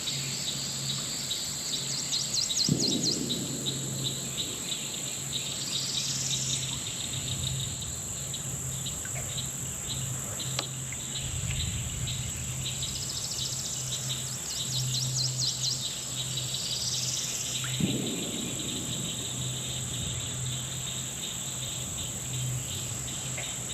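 Outdoor chorus of insects with a steady high-pitched drone, and birds calling over it with rapid trills and rising notes, twice in the stretch.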